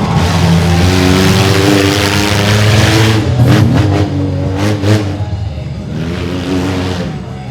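Mini monster truck engine revving hard, its pitch rising and falling as the throttle is worked, with a few sharp knocks about halfway through.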